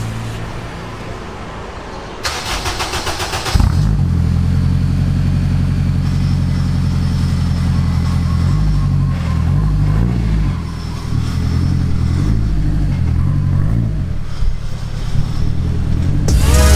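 Turbocharged Honda K20A four-cylinder in a Civic coupe: the starter cranks for about a second and a half, the engine catches and settles into a steady idle, and the idle speed rises and falls a few times.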